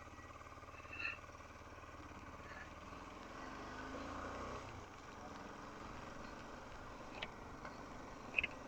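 Faint, steady low hum of a motorcycle engine, with a few short high chirps over it.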